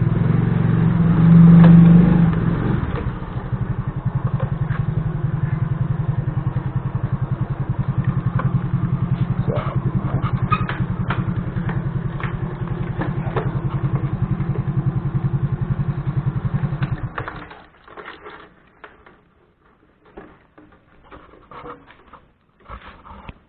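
Small engine of a hand tractor running, a little louder for the first two or three seconds, then chugging steadily until it is shut off about seventeen seconds in. After that only faint scattered knocks are heard.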